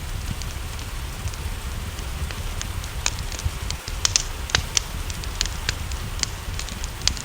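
Wood fire crackling, with irregular sharp pops and snaps, over a steady low rumble and even hiss of rain.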